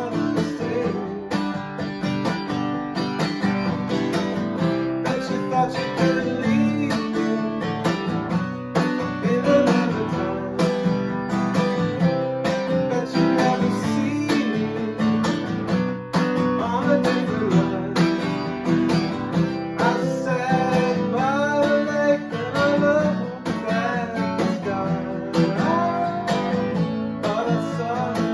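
Acoustic guitar music: strummed chords under a picked melody line that bends in pitch in places.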